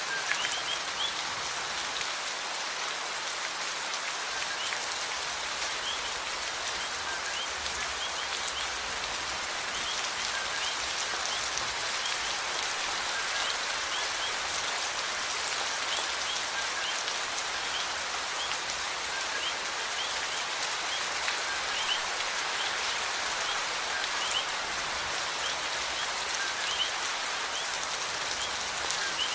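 Steady rain falling, an even hiss of drops on surfaces that holds level throughout, with scattered short high chirps over it.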